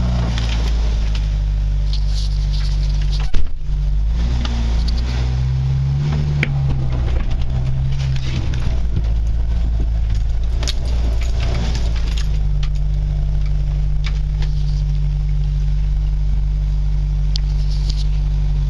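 1995 Jeep Wrangler YJ's 2.5-litre multi-port fuel-injected four-cylinder engine running shortly after a cold start, its pitch rising and falling slightly a few times. A single sharp knock about three and a half seconds in, with faint clicks and rattles throughout.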